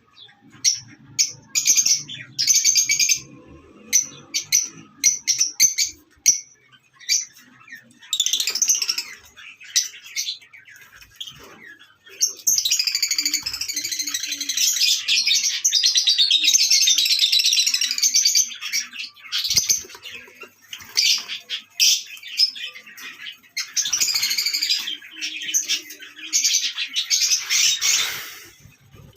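Lovebirds chirping: short, high chirps in quick runs, thickening into long stretches of dense, continuous chattering about halfway through and again near the end.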